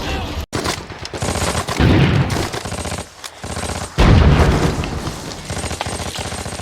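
Film-soundtrack machine-gun fire of the Second World War: rapid automatic bursts, with a lull about three seconds in, then a louder burst starting at about four seconds.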